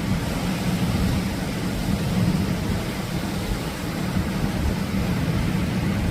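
Steady low rumble of Atlantic surf with wind buffeting the microphone.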